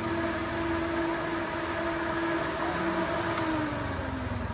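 Yamaha Vixion's race-tuned single-cylinder four-stroke engine running at steady raised revs, then the revs sinking gradually over the last couple of seconds.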